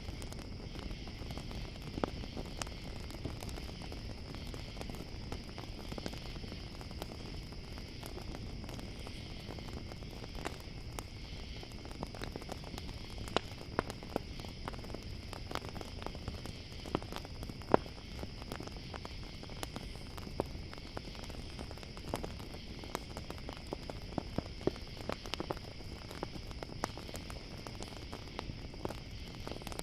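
Campfire crackling, with irregular sharp pops over a low steady rumble of the burning fire, and a steady high chorus of crickets.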